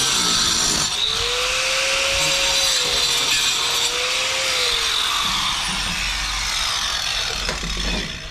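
A power tool running under load, with a loud grinding hiss and a motor tone that sags and recovers. It breaks off briefly about a second in and stops at the end.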